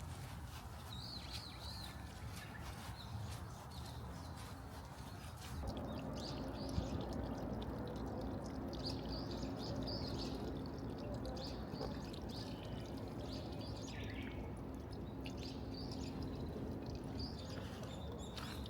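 Small birds chirping, short high calls repeated throughout over an outdoor background hiss. About five and a half seconds in, a steady rushing noise with a faint low hum comes in beneath them.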